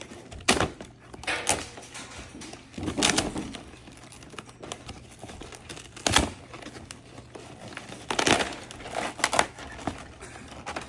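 Cardboard and plastic packaging being torn open by hand, crinkling and ripping in about six irregular bursts.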